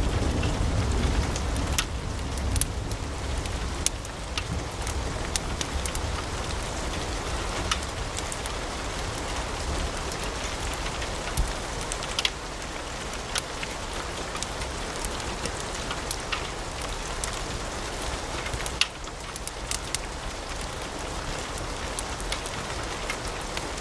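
Wood logs burning in a fireplace: an even hiss with many sharp crackles and pops scattered throughout, and a low rumble that fades over the first few seconds.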